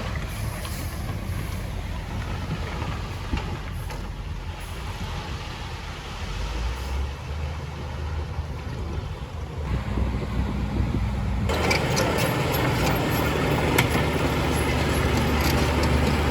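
Diesel engines of heavy construction machinery running with a steady low drone. About two-thirds of the way in, the sound turns suddenly louder and fuller, with more clatter.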